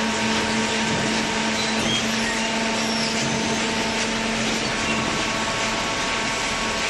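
Industrial cardboard shredding and baling machinery running steadily: a continuous mechanical rush of noise over a constant motor hum.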